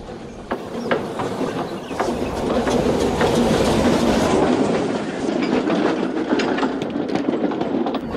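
A train rolling along the track, a steady rumble with scattered sharp clicks of wheels over rail joints, growing louder over the first few seconds.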